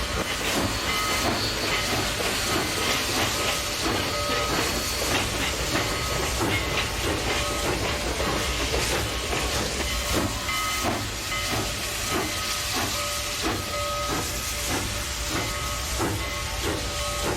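Steam locomotive under way with a train, its exhaust chuffing in a steady beat over a continuous hiss of steam, at about two chuffs a second in the latter part.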